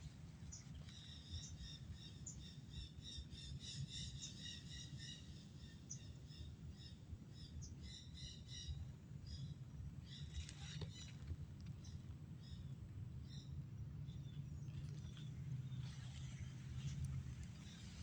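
Flock of wild parrots chattering in a royal palm, giving runs of short, high, repeated chirps. A long run comes in the first half, another burst about ten seconds in, and more near the end, over a steady low rumble.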